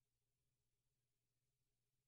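Near silence, with only a very faint steady low hum.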